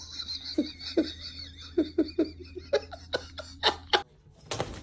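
A person laughing in a run of short, repeated bursts. The laughter stops abruptly about four seconds in, and a brief loud noisy burst follows near the end.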